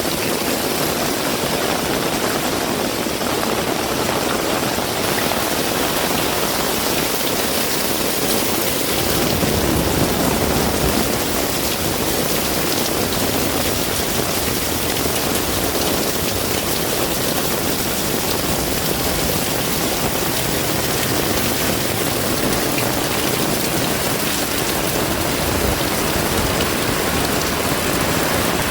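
Heavy rain pouring steadily, an even hiss of falling water; a low rumble joins underneath about nine seconds in.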